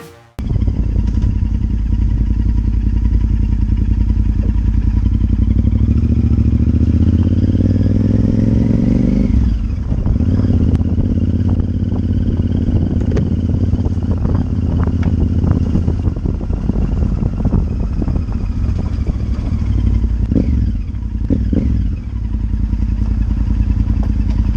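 Honda Varadero 1000 motorcycle's V-twin engine running on the road, its pitch climbing slowly and then falling sharply about nine seconds in.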